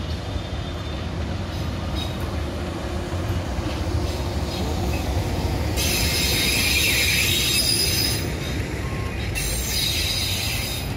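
Diesel-hauled passenger train passing close by: a steady rumble of wheels on the rails, with high-pitched wheel squeal coming in twice, about six seconds in and again near the end.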